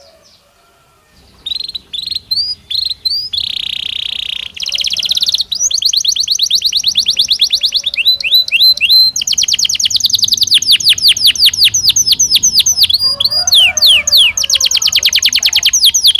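Belgian canary singing: after about a second of quiet, a string of quick rising notes gives way to long, very fast trills and rolls of repeated high notes.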